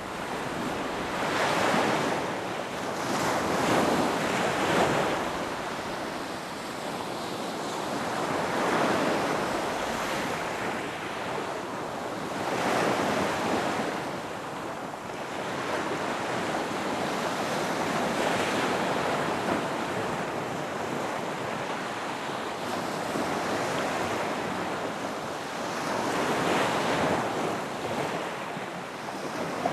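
Ocean waves breaking on a beach: a steady wash of surf that swells and recedes every few seconds.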